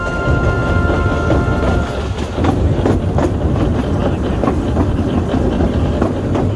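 Narrow-gauge railway carriage running along the track, a rumble with wheels clicking over the rail joints in an uneven rhythm, heard from inside the carriage. A held chord of music ends about two seconds in.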